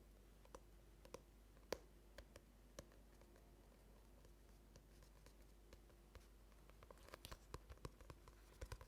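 Faint scattered clicks and taps of objects being handled close to an ASMR microphone, a few sharp ones early on and a quicker run of small clicks near the end, over a faint low hum.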